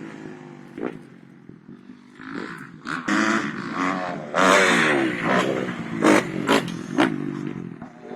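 Motocross dirt bike engine revving in surges, its pitch rising and falling several times, with a few sharp knocks near the end.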